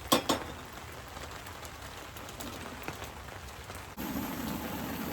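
Steady rain with scattered drops ticking. Two sharp knocks come just after the start, and about four seconds in the background changes suddenly to a louder, lower steady noise.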